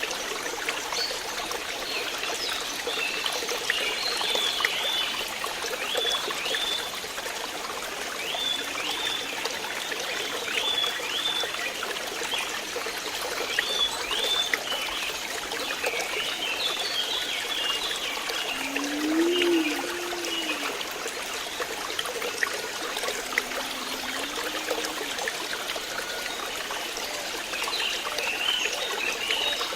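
Flowing water trickling steadily. Over it come rows of short high chirps, through the first half and again near the end, and two low rising-and-falling calls midway.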